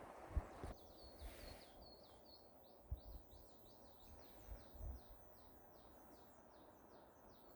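A small bird singing faintly: a long run of short, high chirps repeated about three or four times a second, over a low rumble of wind.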